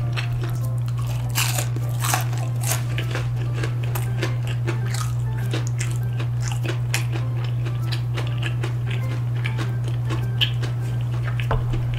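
Close-up crunching and chewing of crispy fried food, irregular crisp crackles through the mouthful. A steady low hum runs underneath.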